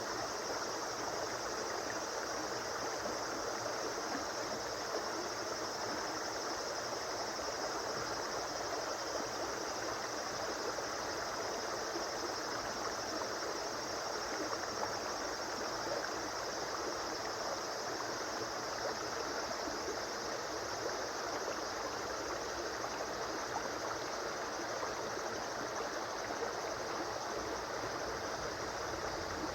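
River water flowing: a steady, even rush of running water that does not change.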